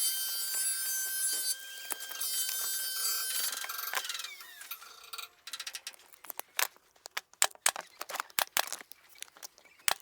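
A small machine gives a steady high whine with hiss for about four seconds. It stops, and a run of sharp, irregular clicks and taps follows.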